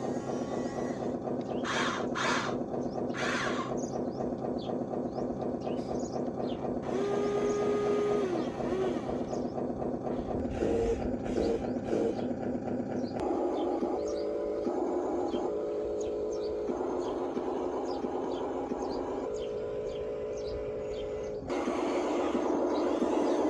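Radio-controlled toy construction vehicles running: the steady, fast-pulsing whir of small electric motors and gearboxes, changing abruptly about two-thirds of the way in and again near the end.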